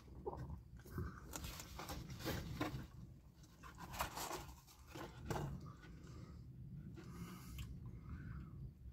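A person chewing a bite of a chicken sandwich, with irregular mouth clicks and smacks.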